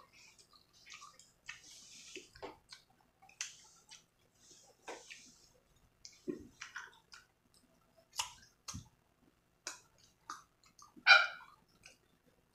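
Close-miked chewing of fresh mango dipped in sautéed shrimp paste (bagoong alamang): a string of short wet smacks and clicks of the mouth and teeth, with a louder bite into a new piece near the end.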